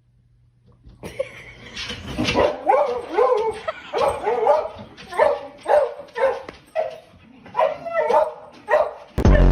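Dog yipping and whining excitedly in a string of short, bending calls, about one a second. A loud sound cuts in just at the end.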